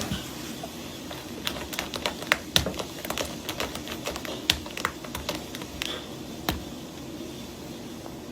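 Irregular light clicks and taps, a few a second and uneven in spacing, over a steady low background noise.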